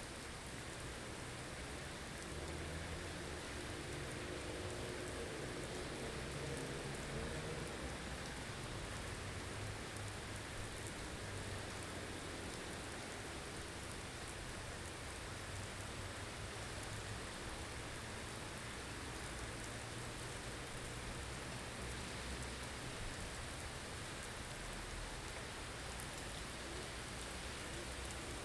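Blizzard ambience: a steady hiss of wind-driven snow over a low, uneven rumble of wind, with a faint howl in the wind during the first several seconds.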